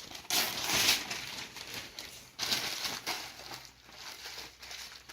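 Crinkling and tearing as jackfruit pods are pulled out of the fruit by hand, in two louder bursts about half a second and two and a half seconds in, with fainter rustling between.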